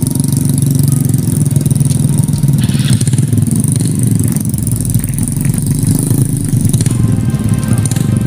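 Trail motorcycle engine running steadily under a heavily loaded cart of oil palm fruit bunches, with a deeper rumble coming in about halfway through.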